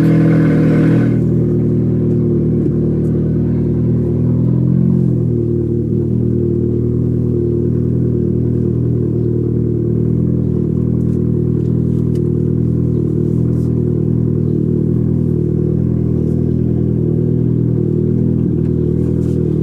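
Car engine running steadily shortly after a cold start, a low, even engine note with little change in pitch.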